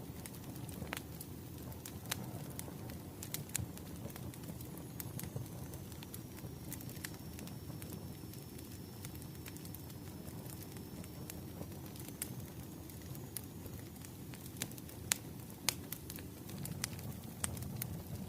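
Wood fire crackling: a steady low rush of flames with scattered sharp pops and snaps.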